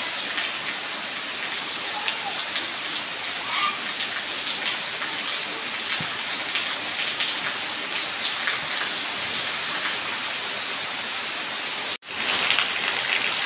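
Steady rain pattering on concrete steps and wet, puddled ground. About twelve seconds in the sound cuts out for an instant and comes back louder and brighter, with a thin stream of runoff water pouring onto the steps.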